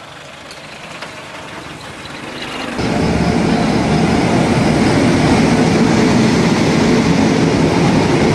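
Locomotive-hauled train running past close alongside a station platform: a loud, steady rumble and rattle that comes in suddenly about three seconds in, over a quieter background before it.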